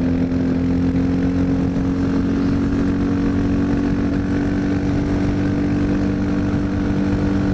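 Honda XR650L's carbureted single-cylinder four-stroke engine running under way at steady throttle, its pitch rising slowly as the bike gathers speed, with wind rush over the microphone.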